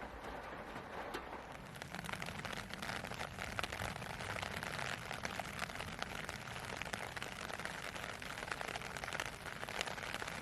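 Rain falling, many separate drops hitting a surface in a dense stream of small ticks. It grows heavier about two seconds in.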